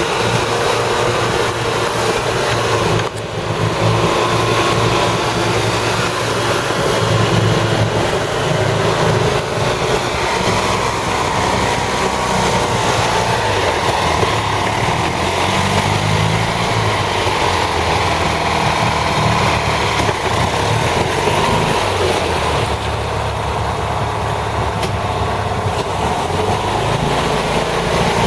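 Amphibious 6x6 ATV engine running steadily under way, its note shifting up and down with the throttle, with a brief drop about three seconds in.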